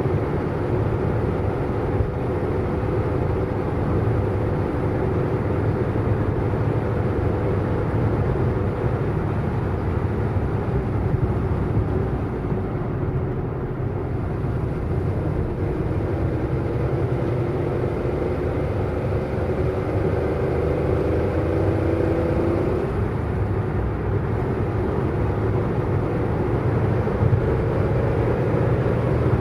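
A car driving at speed: a steady engine hum with road and tyre noise. The engine note climbs slowly, then drops suddenly about three-quarters of the way through.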